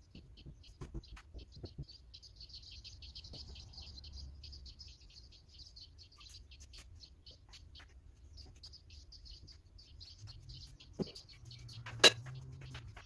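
Birds chirping in a rapid, continuous twitter of short high notes. Near the end there is a single sharp click, the loudest sound, with a fainter one about a second before it.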